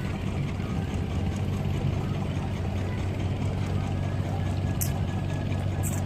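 Boat engine running steadily with a low, even hum, with two brief hisses near the end.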